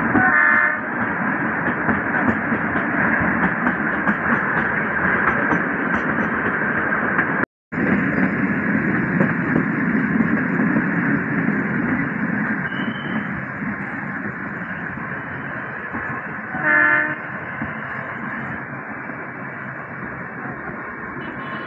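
Narrow-gauge Kalka–Shimla toy train running along the track, a steady noise of wheels and carriage heard from an open coach window, with a short horn blast just after the start and another about seventeen seconds in. The sound cuts out for a split second about seven and a half seconds in.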